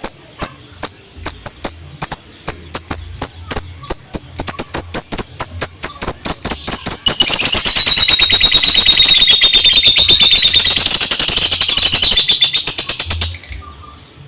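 Lovebird singing in the rapid 'ngetik' style: sharp high chirps that come faster and faster, then run together into a long continuous rapid trill that stops about thirteen seconds in.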